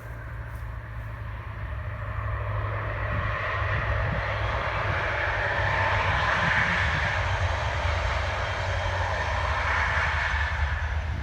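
Class 37 diesel locomotive engine running, with a steady low throb and a rising rush that swells over the first few seconds and then holds. It cuts off suddenly at the end.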